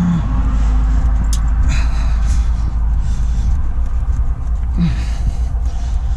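Steady low rumble of a diesel engine running, most likely the trailer's refrigeration unit, switched on while its fuel lift pump is hand-pumped to bleed air from a fuel-starved line. A sharp click comes about a second in.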